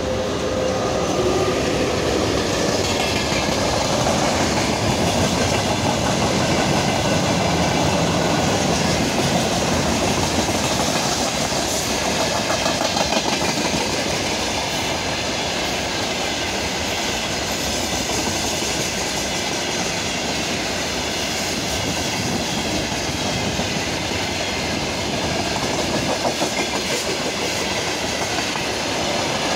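A freight train hauled by a VL80t twin-section AC electric locomotive passes close by: the locomotive goes by at the start, then a long string of freight wagons rolls past with steady clattering of wheels over the rails.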